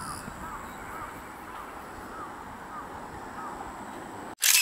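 A bird calling over and over, a short rising-and-falling note repeated every half second or so, over steady outdoor background noise. Near the end a loud, brief burst of noise cuts off suddenly.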